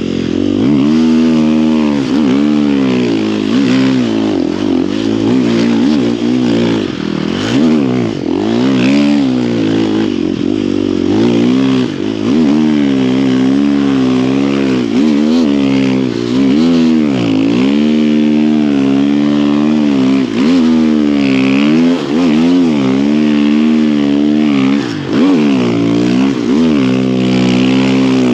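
Snow bike engine revving up and down continuously, its pitch rising and falling every second or two, with no steady cruise.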